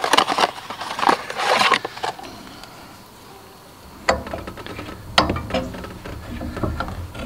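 Workshop handling noises: rustling and clicking in the first two seconds, then two sharp knocks about four and five seconds in, as parts and tools are handled at the engine.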